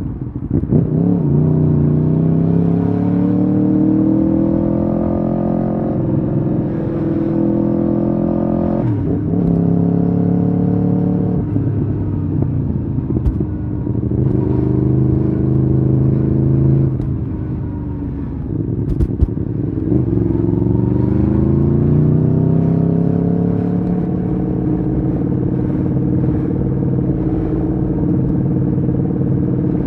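Aprilia Tuono V4R's V4 engine under way, pitch climbing and then dropping sharply at each of several gear changes over the first dozen seconds. It eases off for a few seconds past the middle, pulls up again and settles to a steady cruise.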